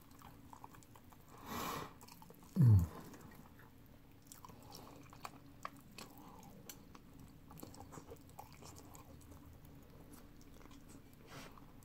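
Close-up chewing of fried chicken: faint wet mouth clicks and smacks throughout. There is a short breath about a second and a half in, and a brief low 'mm' that falls in pitch just after.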